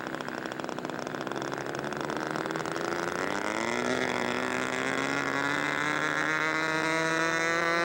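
Rossi .60 two-stroke glow engine of a radio-controlled scale Seahawk floatplane running up, its pitch and loudness rising steadily as the model accelerates on its takeoff run.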